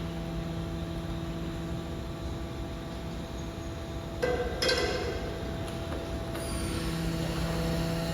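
BYD electric garbage truck's compactor running with a steady hum, with sharp cracking and clinking of the playpen being crushed about four seconds in and again a little later.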